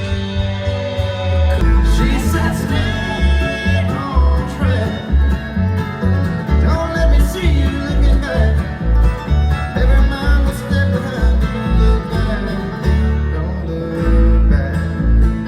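A live country band playing, with guitar over a steady bass beat.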